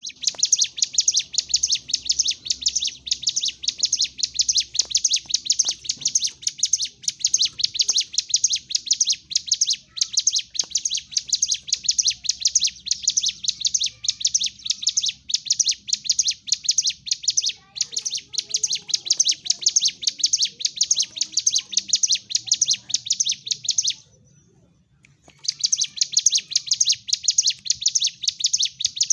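Ciblek gunung (a prinia) singing in aggressive fighting-mode song: a rapid, unbroken chatter of high notes. It breaks off for about a second and a half near the end, then starts again.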